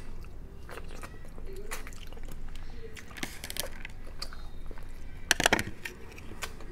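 Close-up eating sounds of shrimp and crab: chewing and biting, with sharp crunches about three seconds in and a louder cluster of crunches past the five-second mark.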